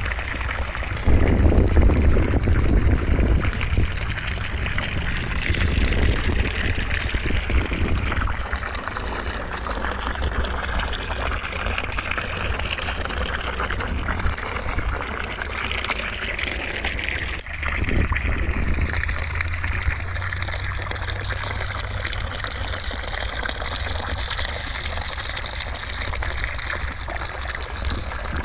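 Continuous white noise: a steady, even rush of hiss. A low rumble swells under it about a second in, and again about two-thirds through, just after a momentary dip.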